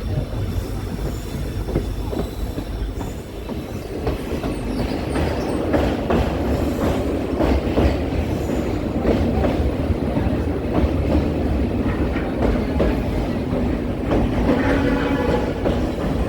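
Passenger train running along the track: a steady rumble with the wheels clacking over rail joints, and a faint wheel squeal near the end.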